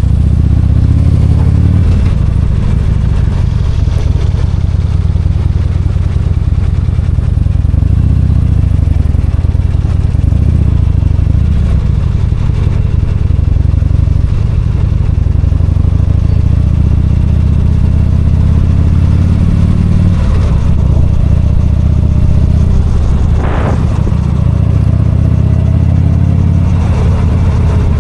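Motorcycle's V-twin engine running under way, its pitch rising and falling gently with the throttle. A short, sharp sound stands out late on.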